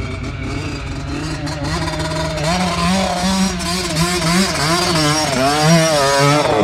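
Small dirt bike engine working under throttle, its pitch rising and falling as the rider opens and closes the throttle, getting louder as it approaches.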